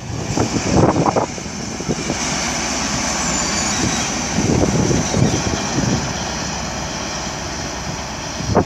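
A train passing through the station: a steady rushing noise with a high hiss that swells in the middle and eases off near the end.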